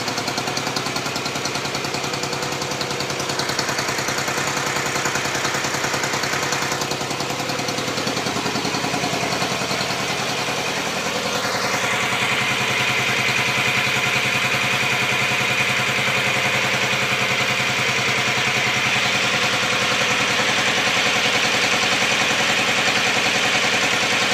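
Dnepr K-650 motorcycle's flat-twin engine running steadily and evenly. About eleven seconds in it is revved up and then held at a higher, steady speed.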